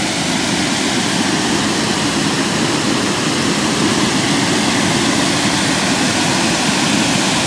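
Hooker Falls, a waterfall, pouring into its pool: a steady, even rush of falling water.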